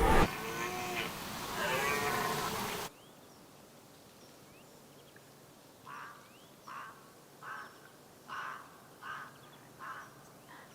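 A deer stag bellowing in its mating display: one long, pitch-bending call of nearly three seconds. Then about seven short, faint calls follow at roughly even spacing, about one every 0.7 s.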